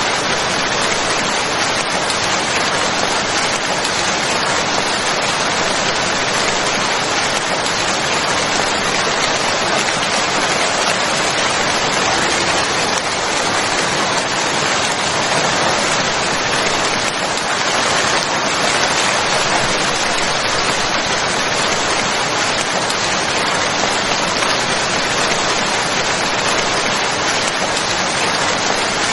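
Steady rainfall: an even, unbroken hiss of rain with no let-up.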